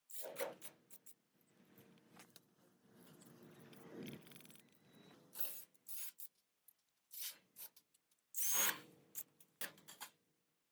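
Hand-tool work on metal: irregular scrapes, clicks and knocks, the loudest a sharp scrape about three-quarters of the way through.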